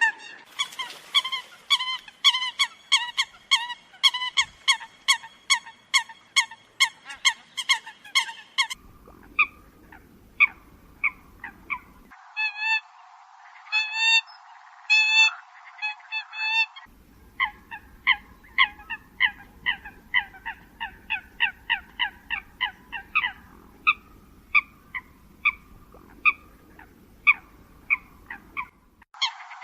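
Eurasian coot calls from a bird-trapping lure recording: series of short, sharp call notes repeated two to three times a second, with abrupt cuts where stretches of the recording are spliced together.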